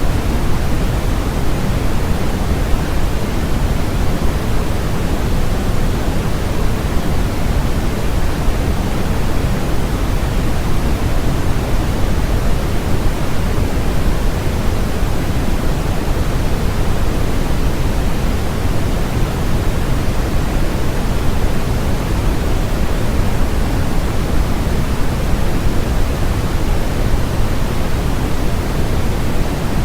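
Steady, unbroken electronic white noise, a continuous hiss heavier in the lows than the highs.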